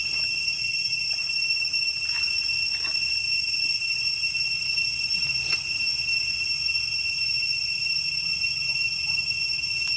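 Steady, high-pitched drone of cicadas, with a few faint brief chirps or clicks over it.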